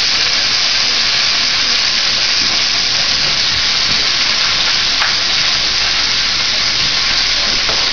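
Chopped carrots sizzling in the hot soup pot: a steady hiss of frying.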